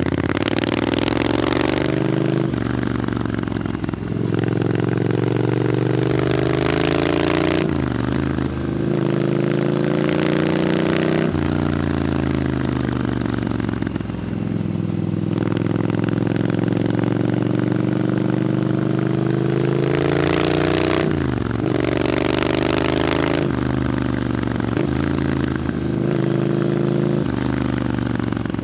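Triumph Scrambler 900's parallel-twin engine through an Arrow exhaust, riding on the road: the pitch climbs and drops back again and again as the bike accelerates, shifts gear and rolls off the throttle. Loud spells of hiss come and go with the harder pulls.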